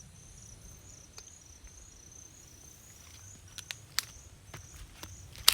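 An insect chirping steadily, a short high-pitched chirp about twice a second. From about three and a half seconds in come a few sharp crackles of footsteps on dry ground, the loudest at the end.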